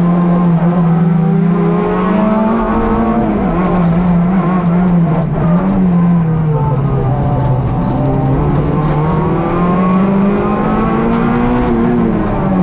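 Rally car engine heard from inside the cabin, driven hard through a special stage: its note climbs over the first few seconds, dips and drops about halfway as the car lifts off and shifts, then climbs steadily again before falling off near the end.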